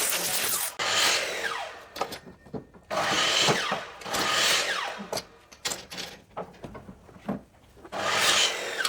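Power tool working wood in three separate passes, each a second or two long, its pitch falling during each pass, with quieter gaps and a few knocks between them.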